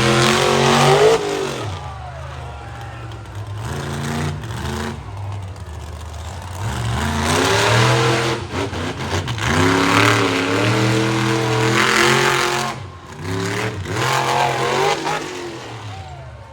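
Monster truck engine revving hard and dropping back repeatedly, its pitch rising and falling in several surges, with a short lull about three-quarters of the way through.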